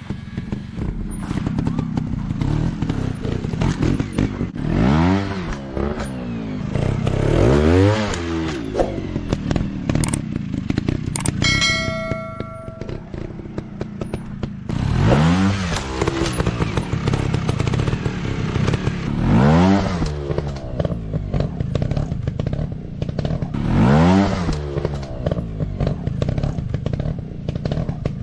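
Dirt bike engines running on a trail course, revving up and falling back again and again, every few seconds, with rattling knocks from the bikes working over rough ground. A brief steady tone sounds about twelve seconds in.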